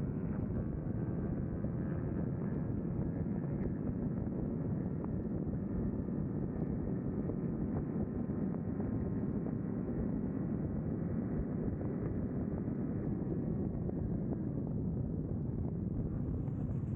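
Steady wind rush over the microphone with a motorcycle engine running underneath while riding at speed.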